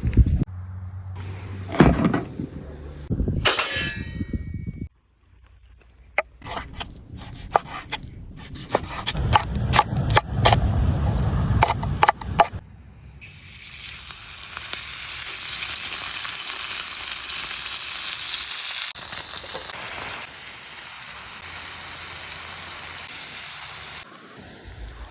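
Saç kavurma, meat frying in a saç pan, with metal clangs and knocks of a utensil against the pan in the first half. Past the middle a loud, steady sizzle takes over.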